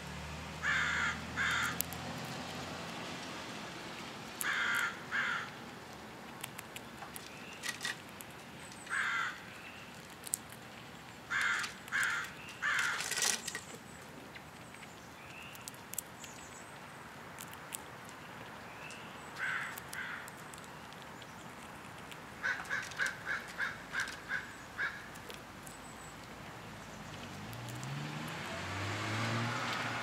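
Harsh, caw-like bird calls coming in short groups of two or three every few seconds. About three quarters of the way through comes a quick run of about seven short calls.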